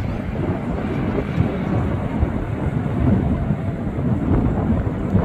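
Strong wind buffeting the microphone: a loud, gusty low rumble that flutters unevenly throughout.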